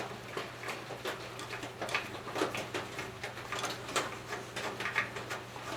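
Small, irregular metallic clicks and light taps of hand work on the engine as the carburetor mounting nuts are threaded onto their studs, over a steady low hum.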